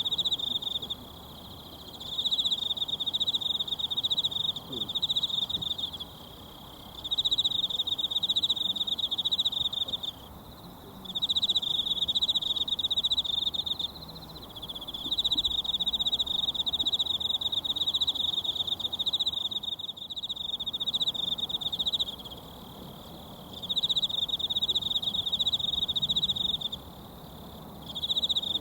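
An insect trilling in a high, steady buzz, in bouts of a few seconds broken by pauses of about a second, over the soft, even rush of a mountain stream.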